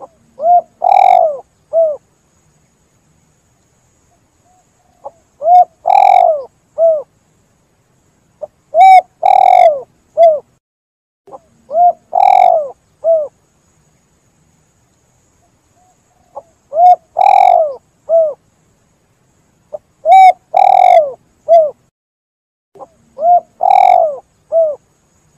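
Spotted dove (tekukur) cooing: seven three-note phrases, a short coo, a longer louder coo and a short coo, repeated every few seconds with silence between.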